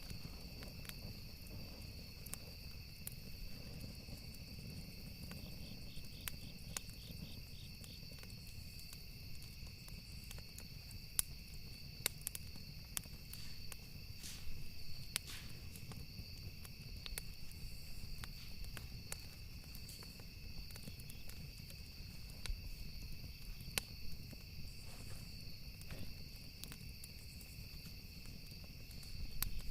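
Campfire ambience: burning wood crackling, with scattered sharp pops over a low rumble, and crickets chirping steadily in the background.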